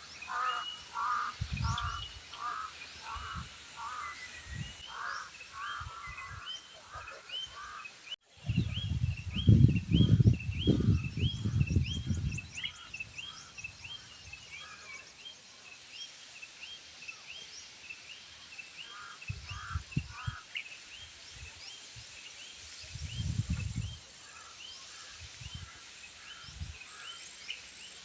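A group of crows cawing in repeated runs of hoarse calls, with many short high-pitched chirps going on throughout. A low rumble swells loudly for about four seconds after a brief dropout about eight seconds in, and weaker low rumbles come and go.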